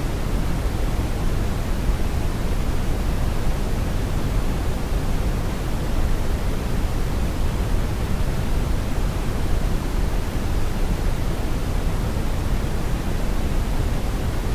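Brown noise: a steady, even rumbling hiss, strongest in the low end, with no change.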